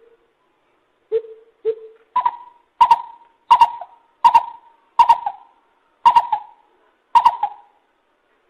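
Lesser coucal calling: two low hollow notes, then seven louder, higher notes in a steady series, spaced a little wider toward the end.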